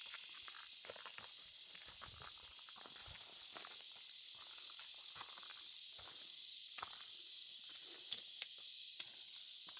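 A steady, high-pitched insect chorus of summer forest insects droning without a break, with faint scattered ticks and crackles beneath it.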